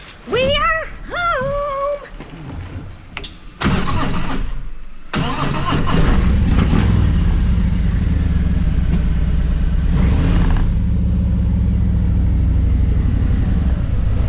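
Harley-Davidson V-twin motorcycle engine cranking, catching about five seconds in, then idling steadily. Two short rising-and-falling tones come near the start.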